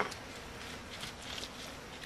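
A single sharp knock right at the start, then faint steady background noise with a few soft ticks.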